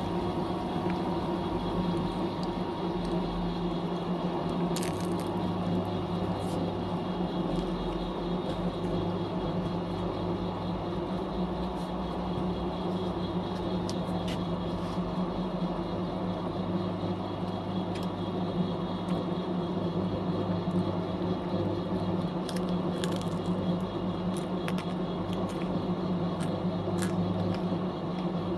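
Fisher & Paykel MW059 top-loading washing machine running mid-cycle: a steady motor hum with a few light clicks and ticks scattered through it.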